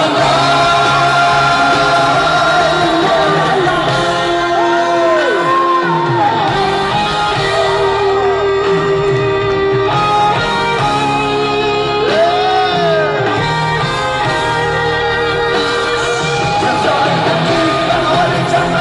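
Live band playing a rock song in a large arena, with long held notes that slide up and down, heard as singing.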